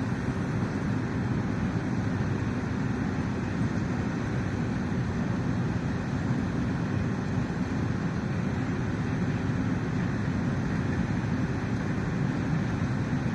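Freight train running, a steady rumble with no change in level.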